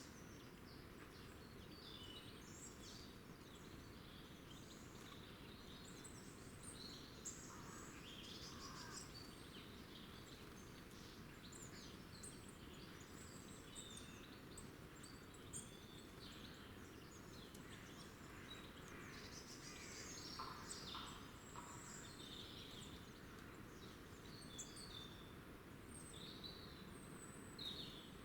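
Faint, scattered chirps and twitters of small wild birds over a steady low background hiss.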